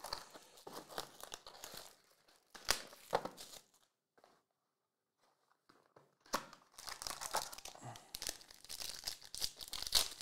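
Plastic wrapping on a trading-card pack being torn open and crinkled by hand, in two spells of rustling with a quiet pause of a couple of seconds between them.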